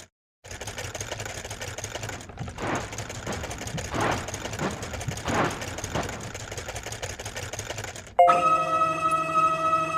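A rapid mechanical rattle, with a few short rising sweeps through it. About two seconds before the end, a steady horn-like tone starts suddenly and holds.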